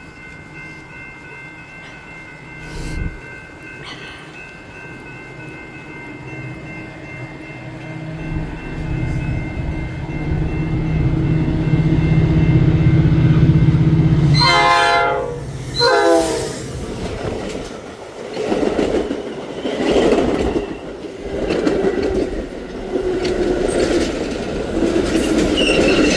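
Diesel commuter train approaching, its engine drone building over several seconds. As it passes come two short horn sounds that slide down in pitch, followed by the wheels clattering over the rail joints as the cars roll by.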